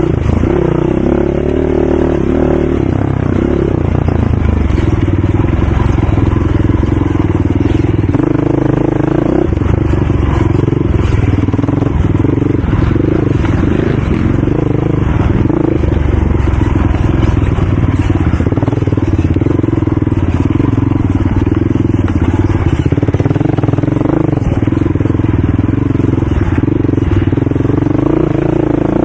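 ATV engine running loud and continuously, its pitch rising and falling a little with the throttle.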